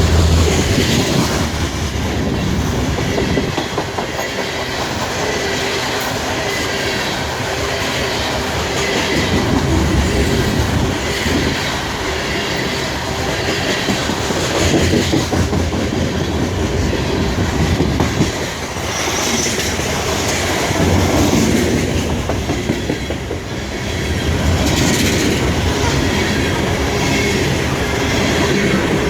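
CSX coal train's cars rolling past, the wheels clacking steadily over the rail joints with a continuous rumble.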